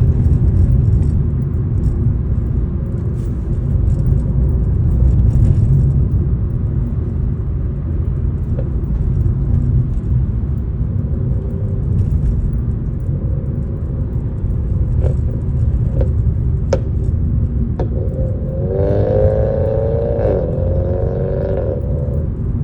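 Steady low rumble like a road vehicle running, with a few sharp ticks and, near the end, a wavering pitched sound lasting about three seconds.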